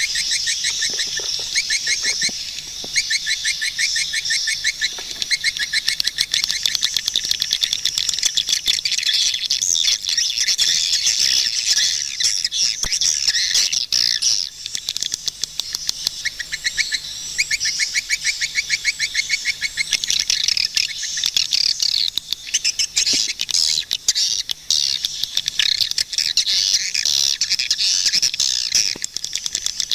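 Swiftlets calling: a dense, continuous twittering of high chirps, broken up by rapid trains of short clicking chirps.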